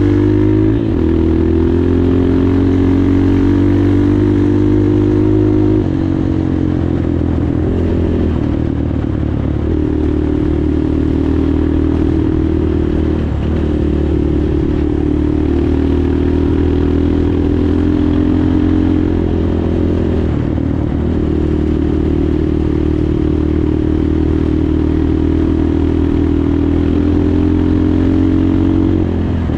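PROGASI Super Max 250 enduro motorcycle's engine running under way. Its pitch climbs slowly and then drops several times, about every six or seven seconds, as the throttle and gears change.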